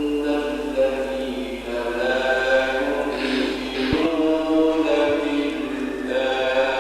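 A man's voice reciting the Quran in melodic tajweed style, with long held, ornamented notes that bend slowly in pitch.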